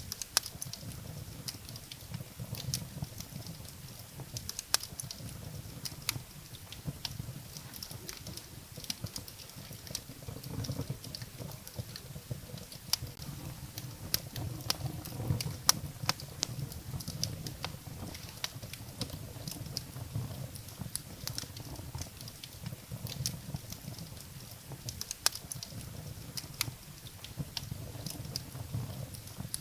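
Wood fire burning in a fireplace: firewood crackling and popping in irregular sharp snaps over a steady low rumble of the flames, with one louder pop about halfway through.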